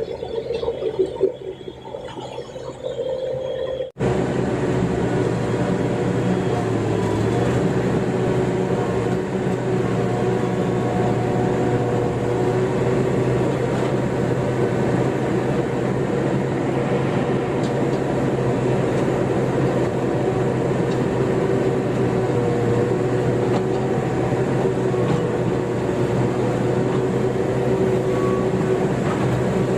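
Excavator's diesel engine and hydraulics running steadily under working load, a constant drone with a steady hum of held tones. About four seconds in, the sound cuts in abruptly after a quieter, uneven stretch.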